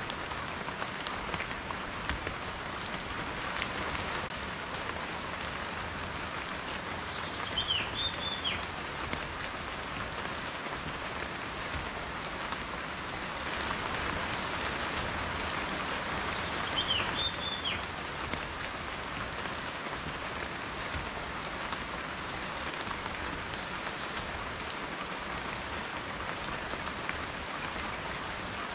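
Steady rain falling, with individual drops ticking through it. A bird gives a short call twice, about eight and seventeen seconds in.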